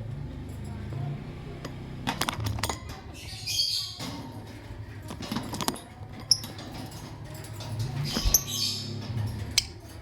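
Pet lovebirds flapping their wings and giving a few short high chirps, with scattered sharp clicks, over a low steady hum.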